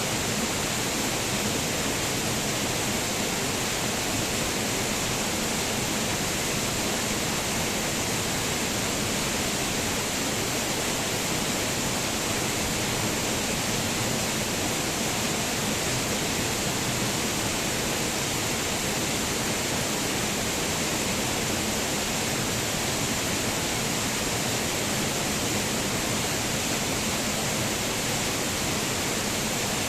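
Waterfall: the steady, even rush of falling water, with no change in level.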